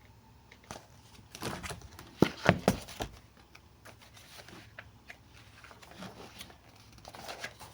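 Paper rustling and crackling as picture-book pages are handled and turned, with a few sharp crinkles about two seconds in, then softer rustles.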